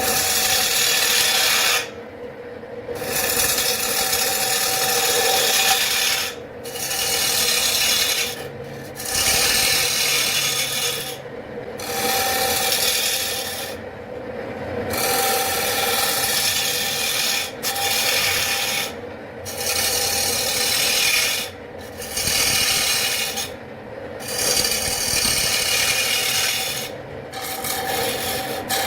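Abrasive strokes on wood, a rasping rub repeated about a dozen times, each stroke lasting one to three seconds with short pauses between, over a faint steady hum.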